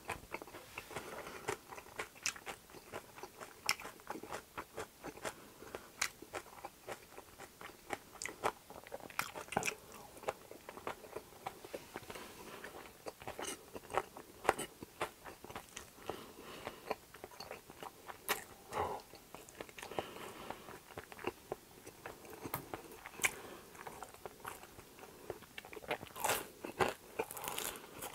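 A person chewing food close to the microphone: wet chewing with many small crunches and clicks, and a denser run of crisp bites near the end.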